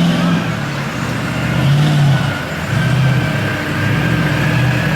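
Off-road competition truck's engine revving up and dropping back several times in quick succession.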